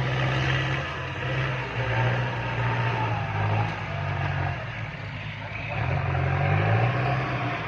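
Vehicle engine running steadily with a low hum, its pitch shifting a little as the engine speeds up and slows. Its pitch rises about six seconds in, heard over road and wind noise.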